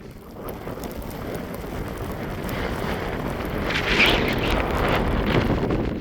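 Strong mountain wind gusting and buffeting the microphone, a rushing noise that builds to its loudest about four seconds in.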